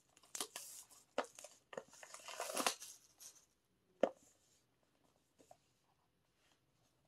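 Album packaging being opened and handled by hand, crinkling and tearing for about the first three seconds with a few sharp taps. One sharp knock follows about four seconds in.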